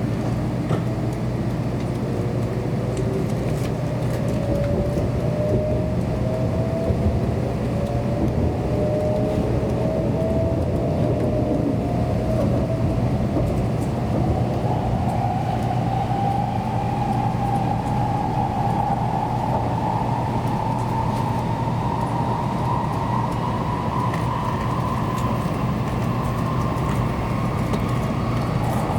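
Kyushu Shinkansen running, heard inside the passenger car: a steady low rumble with a motor whine that climbs slowly in pitch as the train picks up speed.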